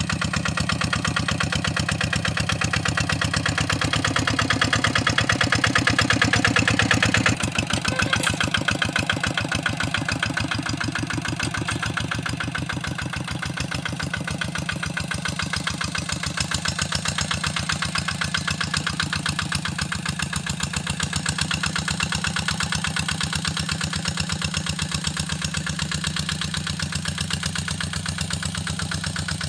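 Hand tractor's small diesel engine running with a steady rapid chugging while plowing a wet rice paddy. It swells louder for a few seconds, then drops back abruptly about seven seconds in.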